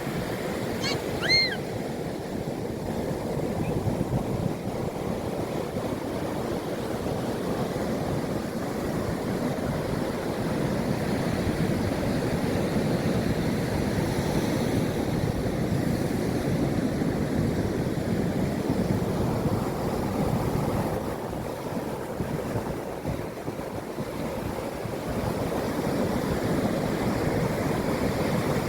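Sea waves breaking and washing on the shore: a steady rushing that swells and eases every few seconds. A brief high chirp sounds about a second in.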